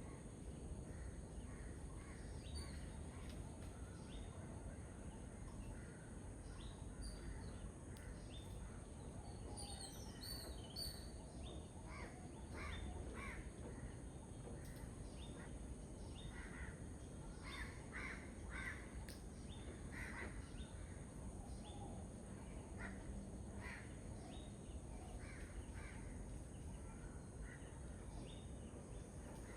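Pheasant-tailed jacana calling: short calls repeated over and over, coming thickest from about twelve to twenty seconds in, over steady low background noise.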